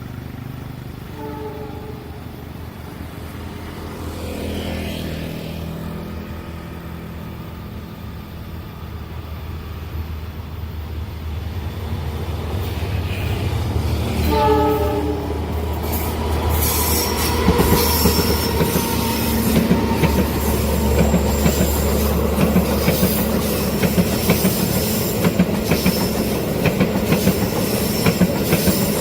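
A diesel locomotive approaches with a steady low engine rumble, and its horn sounds faintly near the start and in a short blast about halfway. The train then passes close by, its wheels clicking rapidly over the rail joints and squealing on the track, louder than before.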